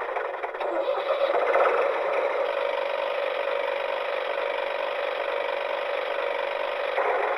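Small electric motor running steadily through gearing, with a continuous fine rattle.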